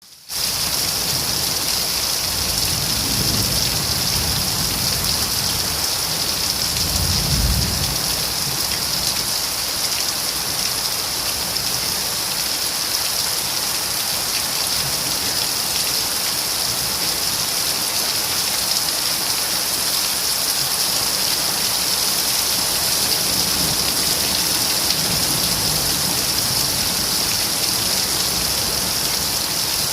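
Rain falling steadily, a dense even hiss, with a faint low rumble now and then.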